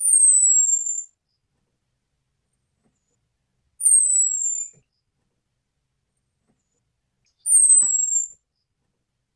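Orange-headed thrush giving a thin, very high whistled call that falls slightly in pitch, about a second long, repeated three times nearly four seconds apart.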